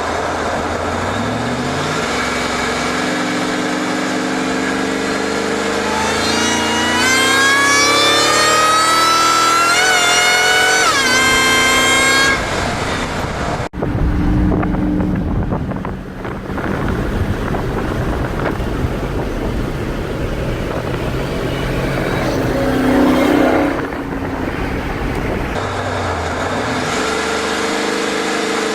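Ford SVT Lightning pickup's engine accelerating hard on a fly-by, its pitch climbing for several seconds before cutting off abruptly. This is followed by a long rushing noise with a swell in the middle, and near the end the engine pitch begins climbing again.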